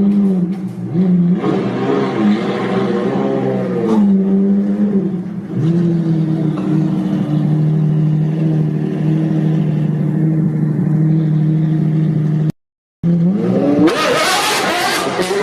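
Car engine revving: the pitch rises and falls in several quick blips, then holds a steady note for several seconds. It cuts out abruptly for about half a second near the end, then the revs climb sharply again.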